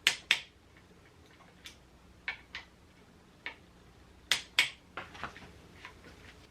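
Click-type torque wrench breaking at its set torque of 100 inch-pounds on the fork's lower clamp bolts: sharp double clicks, three loud pairs about two seconds apart, with a few lighter clicks between.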